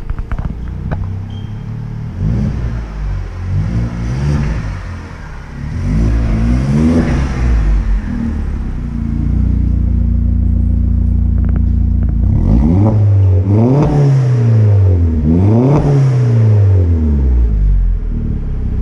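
Car engine revved repeatedly: a few small blips, then two bigger revs near the end that rise and fall back to idle about two seconds apart.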